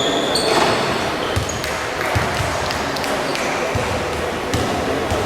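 Basketball shoes squeaking sharply on a gym floor, mostly in the first half-second, with the ball bouncing and players' feet thudding at irregular moments. All of it rings in an echoing hall under a steady hum of background noise.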